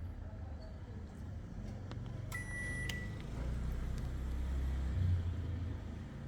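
A single electronic beep from a Panasonic Eolia CS-E935K air conditioner's indoor unit, a steady high tone lasting about half a second, a little over two seconds in, the kind an air conditioner gives when it takes a remote-control command. A low rumble runs underneath.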